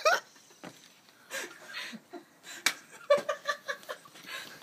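Subdued laughter in a run of short pulses about three seconds in, with a few sharp clicks and knocks scattered through.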